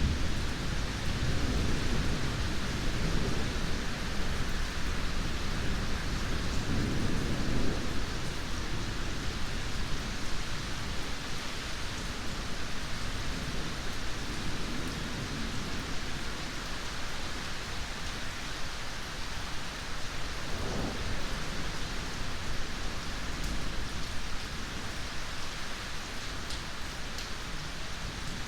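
Steady heavy rain hissing, with thunder rolling low in the first several seconds, then fading to a faint rumble. The rain carries on evenly after the thunder dies away.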